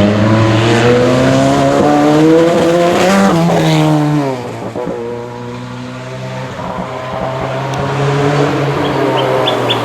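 Historic rally car engine at full throttle, its pitch climbing as it pulls through the gears. About three to four seconds in the pitch drops and the sound fades as the car goes away. Near the end an engine grows louder again.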